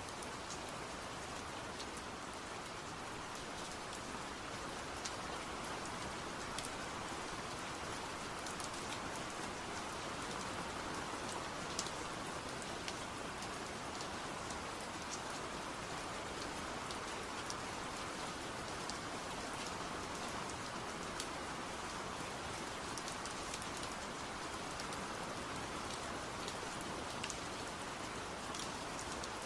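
Steady rain falling: a continuous even hiss with scattered individual drops ticking through it.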